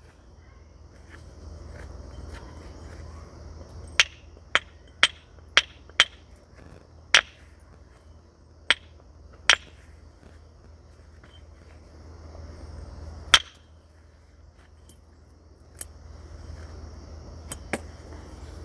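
Sharp, ringing clicks of a natural hammer striking flint during knapping, about a dozen irregular blows, with a quick run of five or six in the first half. A steady high insect chirr runs underneath.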